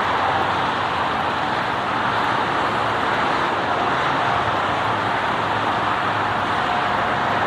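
Steady, even roar of engine noise with a faint steady hum and no clear changes.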